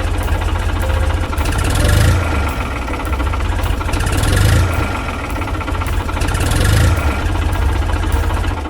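Mini tractor's small engine running with a fast knocking beat, swelling louder every couple of seconds as if put under load.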